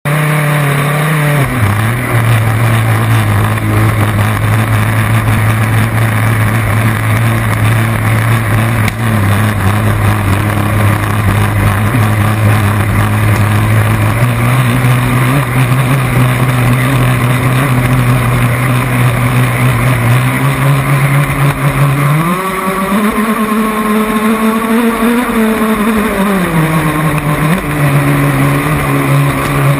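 Small boat's engine running at a steady pitch. It revs up higher about 22 seconds in and settles back down a few seconds later.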